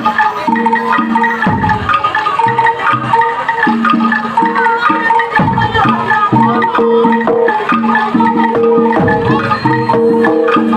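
Gamelan-style music: metallophones strike repeated notes in a steady rhythm, with a deep drum stroke now and then.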